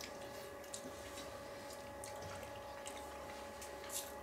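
Quiet wet mouth sounds and small smacking clicks of a person eating a boiled Weißwurst, over a steady hum.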